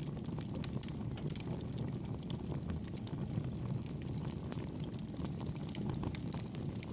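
Fire burning in a fireplace: a steady low rumble of flames with frequent small crackles and pops.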